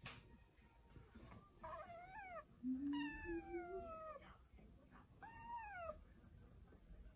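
A domestic cat meowing three times, quietly; the middle meow is the longest and slides down in pitch.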